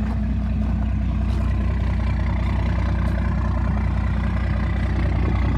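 1993 Cummins 12-valve 5.9-litre inline-six diesel idling steadily while it warms up after a cold start.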